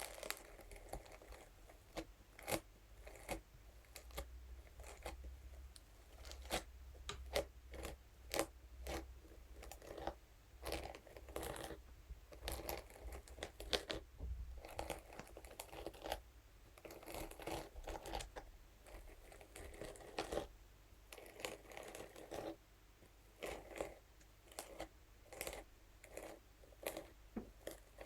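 A scalp massage brush scratching and tapping against materials, heard close up: irregular sharp taps mixed with short crinkly, scratchy strokes.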